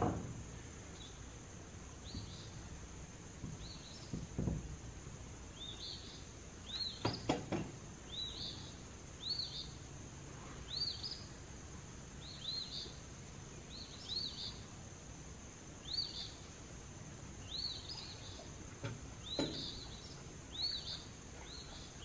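A bird calling over and over, a short rise-and-fall chirp about once a second, over a steady high-pitched hiss. A few knocks from the board work cut in, the loudest a pair about seven seconds in.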